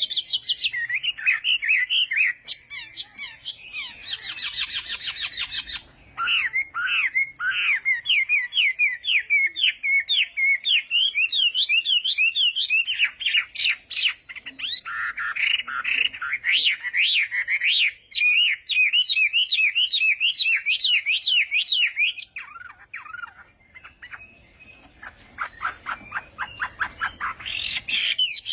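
Chinese hwamei (melodious laughingthrush) singing a long, varied song of fast repeated whistled notes. About four seconds in, the song breaks into a short harsh rattle, and it turns quieter and sparser near the end.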